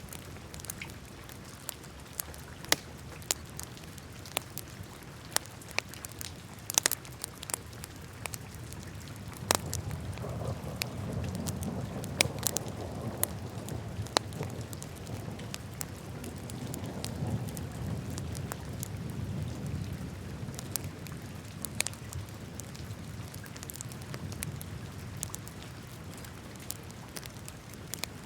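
Wood fire crackling in a fireplace: irregular sharp pops and snaps over a low rushing of flame that grows louder through the middle.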